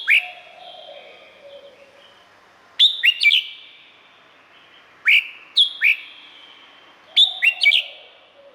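Red-whiskered bulbul singing: four short phrases of quick, sharp whistled notes, about every two seconds, with fainter bird whistles behind them.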